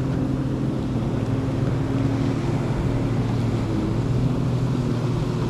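Personal watercraft (jet ski) engines running steadily at low, idle-level speed, with wind on the microphone.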